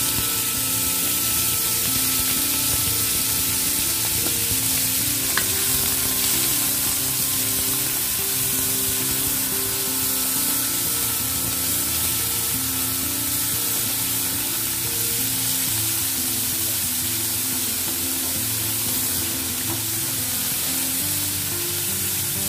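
Pieces of fresh squid sizzling steadily as they fry in hot vegetable oil in a wok, stirred now and then with a wooden spatula.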